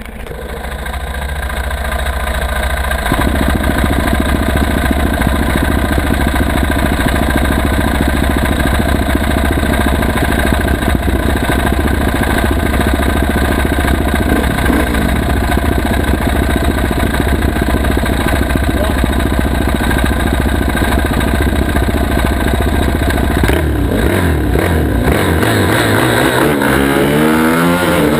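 Dirt bike engine running loud and steady, then from about five seconds before the end revved up and down in quick swells.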